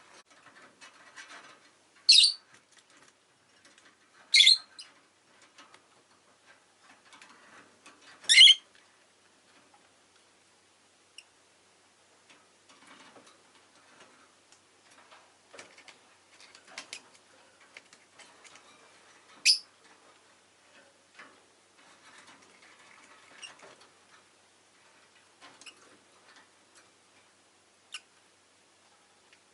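Rosy-faced lovebirds giving four short, shrill, sharp calls, loud against faint scattered clicking and rustling in between.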